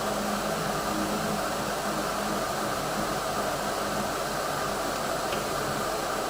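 PC power supply's cooling fan running with a steady rushing noise. The fan is turning slowly, a sign that its bearing has dried out and needs oiling.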